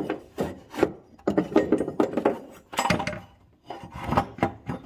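Metal parts and tools clinking, knocking and scraping in a car's engine bay as a bolted bracket is worked loose. The sound comes in irregular clusters of sharp knocks with short rubbing scrapes between them.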